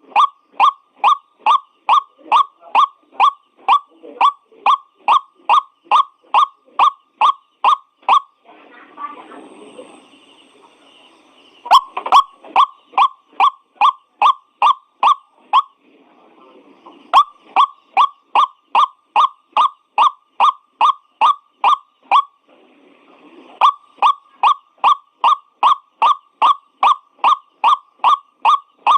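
White-breasted waterhen calling one short note over and over, about two to three a second. The runs stop briefly three times, at about nine, sixteen and twenty-three seconds in, and fainter, rougher sounds fill those gaps.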